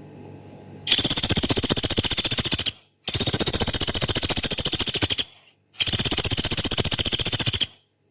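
Pelatuk beras (small woodpecker) calling in three long, harsh rattles, each a very fast, even run of high notes lasting about two seconds, with short pauses between.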